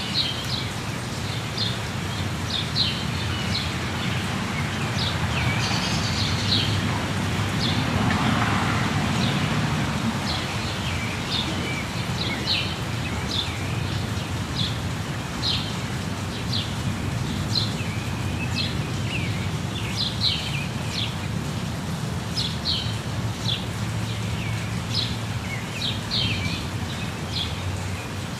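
Jungle birds chirping in many short, quick calls over the steady rush of a waterfall, the water swelling briefly about a third of the way in.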